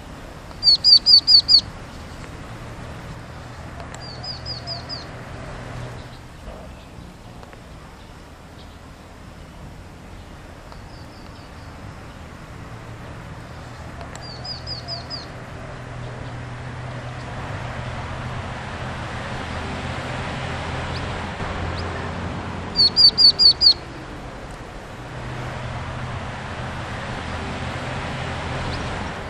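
A bird calling in short bursts of about five quick, high, evenly repeated notes, every few seconds. Some bursts are loud and some faint. The calls sit over a steady low rumble and hiss that swells for a while partway through.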